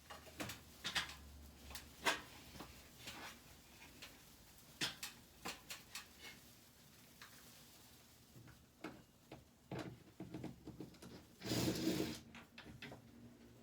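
Scattered light clicks, knocks and rubbing as an air-conditioner ceiling panel is handled and fitted to the indoor unit, with a longer scraping rub near the end.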